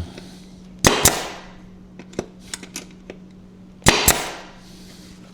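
Staple gun firing staples into a wooden stake twice, about three seconds apart, each shot a sharp doubled snap, with small handling clicks in between.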